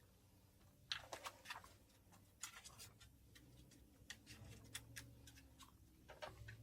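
Faint, irregular clicks and rustles of small objects being handled, beginning about a second in, over a low steady hum.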